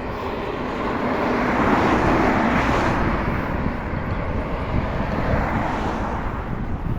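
A motor vehicle passing the bike, its noise swelling to a peak about two to three seconds in and then fading, over a steady low rumble of wind on the microphone.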